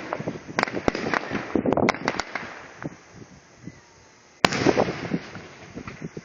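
Fireworks going off: a rapid string of sharp bangs and crackles for the first two seconds or so, then one loud bang about four and a half seconds in, followed by scattered crackling.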